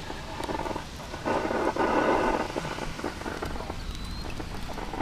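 Two short bursts of scanner radio noise with no clear words, the second and louder one lasting about a second and a half, over a steady background of rain.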